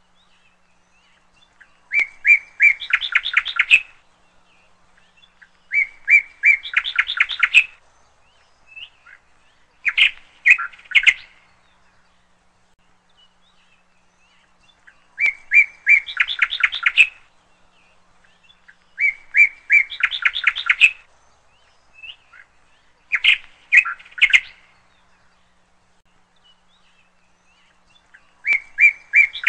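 A songbird singing the same short phrase over and over, seven times a few seconds apart: a few clear notes, then a quick run of notes that climbs a little higher.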